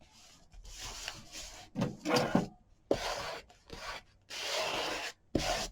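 Paper being rubbed and scraped by hand on a craft table in several separate strokes, the longest about a second near the end, as the paper is smoothed out.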